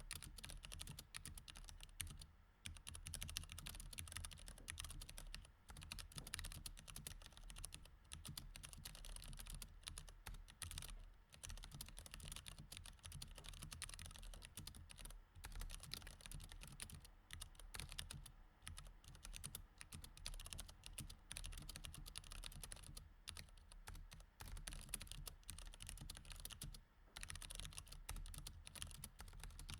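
Rapid, continuous typing on a mechanical keyboard with Cherry MX Red switches: a steady patter of key clicks, broken by short pauses every few seconds.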